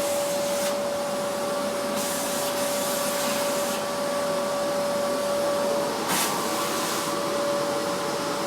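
Vacuum cleaner running steadily with a constant whine over its rushing air noise; a short burst of hiss about six seconds in.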